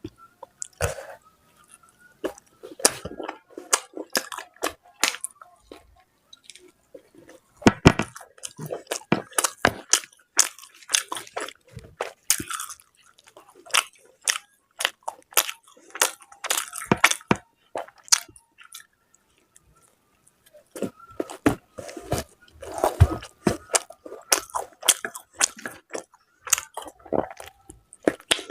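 Close-up eating sounds: wet chewing and lip smacking with irregular crunchy bites, as luchi and mutton curry with salad are eaten. They come in clusters, with a brief lull about two-thirds of the way through.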